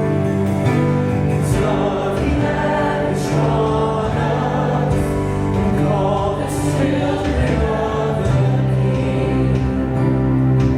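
Christian worship song with a choir singing over a steady instrumental accompaniment.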